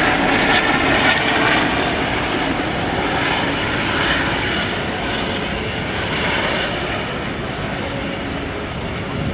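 Helicopter engine and rotors running steadily, growing slowly fainter.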